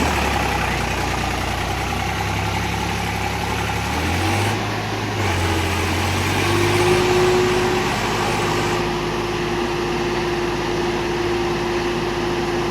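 Tractor diesel engine running steadily, its pitch stepping up about four seconds in and again about six and a half seconds in.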